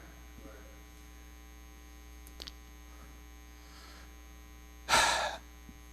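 Steady low electrical mains hum in the sound system, with a small click about two and a half seconds in and a short, loud rush of noise about five seconds in.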